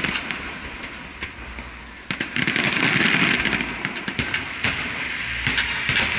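Aerial fireworks shells bursting, with sharp bangs and a dense crackle. The crackle dies down, then comes back suddenly and loud about two seconds in.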